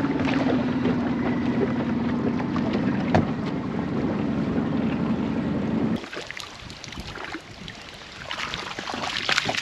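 Dinghy outboard motor running steadily, then cutting off abruptly about six seconds in, leaving quieter noise with a few scattered knocks.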